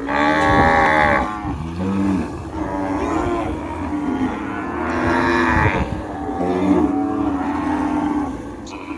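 Cattle mooing: a series of about four long, drawn-out moos with short pauses between them.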